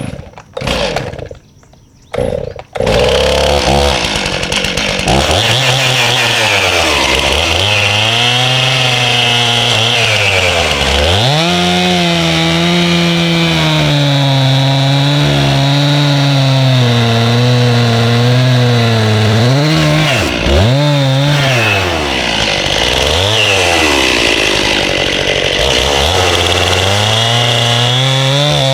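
Two-stroke chainsaw firing in a few short bursts, then starting about three seconds in and running, its engine pitch dipping and recovering repeatedly as it cuts through a walnut log.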